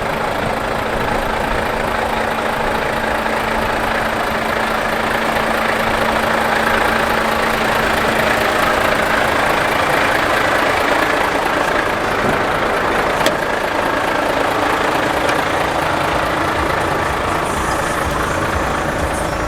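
Volvo FH540 truck's 13-litre six-cylinder diesel engine idling steadily, with a faint steady whine for the first third or so.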